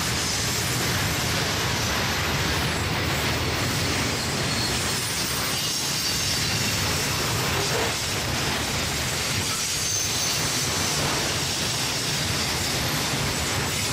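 Freight train of flat wagons loaded with steel coils rolling past at close range, a steady, unbroken noise of steel wheels running on rail.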